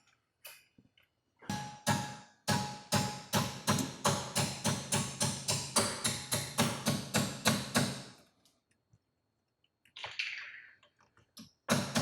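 Quick, steady hammer taps on the steel pad-retaining pin of a Brembo rear brake caliper, about three a second, driving the pin through the caliper and pads. The tapping stops about eight seconds in and starts again at the very end.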